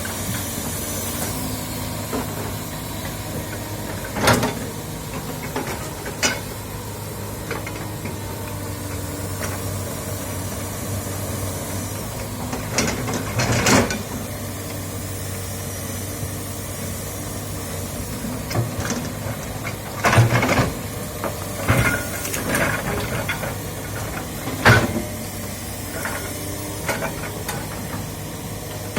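Komatsu hydraulic excavator's diesel engine running steadily at working speed, with a hiss over it. About five loud sudden cracks and knocks break through it at irregular intervals as the machine works the ground and vegetation.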